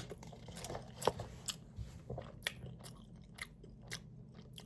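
Faint chewing: irregular soft clicks and smacks of a mouth eating food, a few every second.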